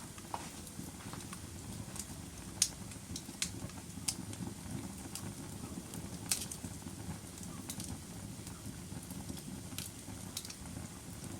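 Log fire burning in a fireplace: a steady low rush of flame with irregular sharp crackles and pops every second or two.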